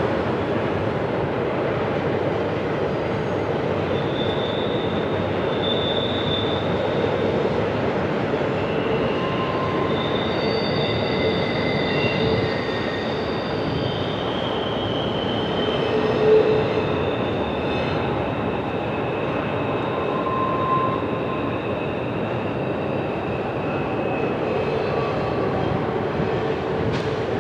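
CPKC double-stack intermodal freight train rolling by with a steady noise from the cars, while wheel flanges squeal on the curving track in high tones that come and go at several pitches.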